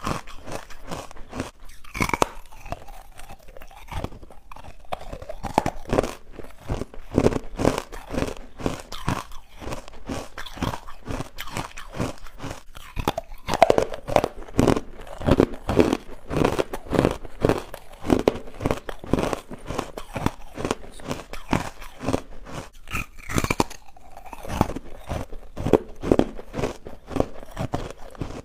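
A mouthful of chalky, crunchy carbonated white ice bites being chewed, crunching steadily at about three chews a second.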